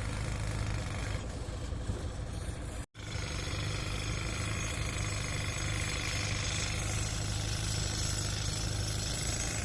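A vehicle engine running steadily at idle, with a brief cut to silence about three seconds in.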